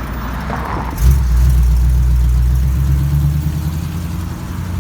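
Classic car's engine pulling away: a loud, low engine note comes in suddenly about a second in and slowly eases off toward the end.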